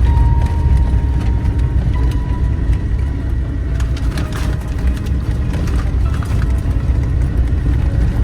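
Suzuki Jimny JA11's small three-cylinder turbo engine running with road noise while driving, a steady low rumble.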